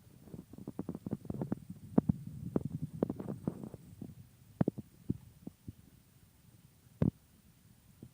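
Wood campfire crackling and popping, thickly for the first few seconds and then more sparsely, with one sharp pop about seven seconds in, over a low rumble.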